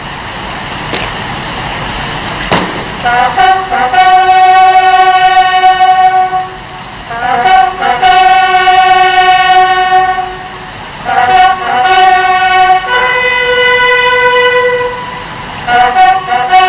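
A loud horn sounding in long, steady blasts, five in a row, each about two to three seconds long with short gaps between. The fourth blast is on a different pitch, and the first three seconds before the blasts are a noisy rush with a few clicks.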